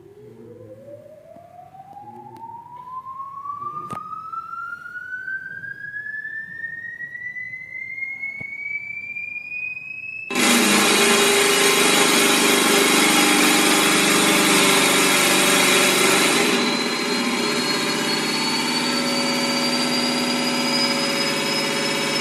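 Small DC motor of a homemade pest repeller spinning up under its speed control, a whine rising steadily in pitch over about ten seconds. About ten seconds in, a loud harsh rattling, buzzing noise starts abruptly and carries on, easing a little later, while the motor's whine keeps slowly climbing.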